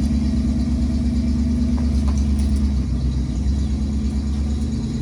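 Engine of the towing vehicle running steadily at low revs, its pitch easing slightly lower about three seconds in.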